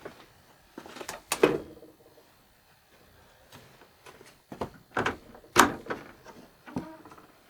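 A run of sharp wooden-sounding knocks and clunks, the loudest about a second and a half in and again near five and a half seconds.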